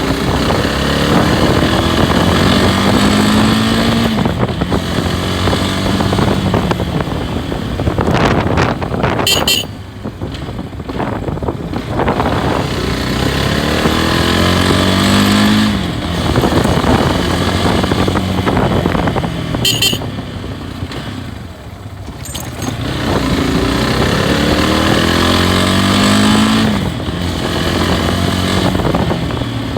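Loncin SX2 250 motorcycle's single-cylinder engine under way, revs climbing and falling back several times as it accelerates through the gears and eases off.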